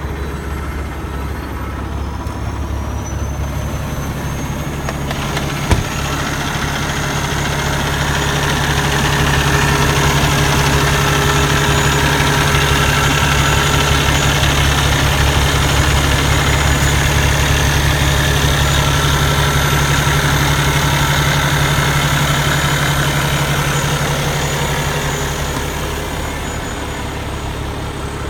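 Cummins ISX diesel engine of a 2015 Kenworth T680 tractor idling steadily, freshly started. A single sharp knock comes about six seconds in, and the engine grows louder from about eight seconds in before easing off again near the end.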